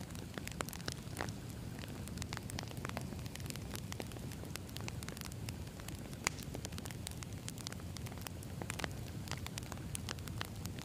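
Campfire of burning firewood crackling: frequent, irregular sharp pops and snaps over a steady low rumble of the flames, with one louder pop a little past halfway.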